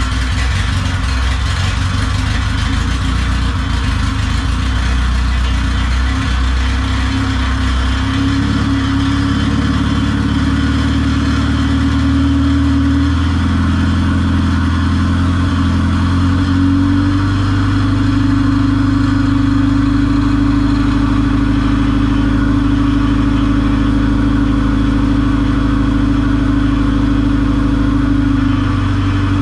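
1994 Acura Integra GSR's four-cylinder engine running steadily on its first run after sitting about two years. Its speed steps up about a third of the way in and again past halfway, then holds at the higher pitch.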